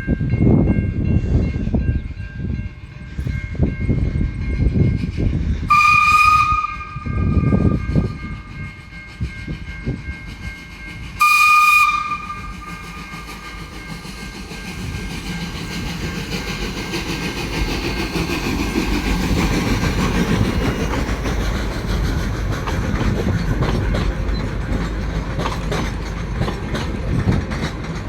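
Steam locomotive arriving: a run of exhaust chuffs, then two whistle blasts about six and eleven seconds in, the first one longer. After that, wheels clattering over the rails and steam hissing build up and grow louder as the train draws in.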